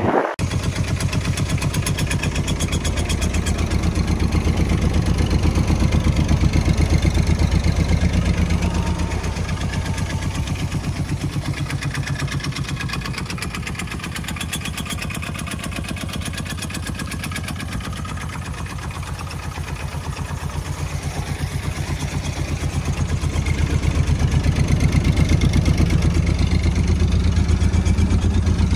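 Small microcar engine running with a fast, even pulse. It is louder from about 4 to 9 seconds in, quieter through the middle, and louder again near the end.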